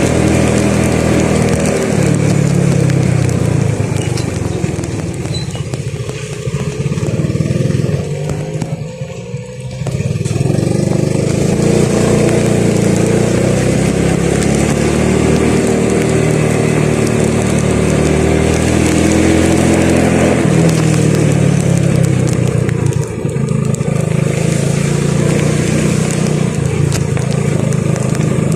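A road vehicle's engine runs under way, with steady road and wind noise. It picks up speed about two seconds in, eases off and goes briefly quieter about a third of the way through, then accelerates again later on.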